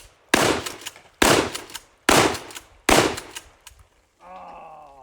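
Shotgun firing birdshot, four shots in quick succession about a second apart, each with a short echoing tail.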